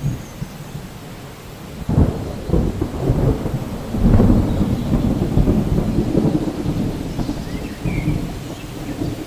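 Steady rain with a roll of thunder. The thunder breaks in suddenly about two seconds in, swells around four seconds, then rumbles on and eases near the end.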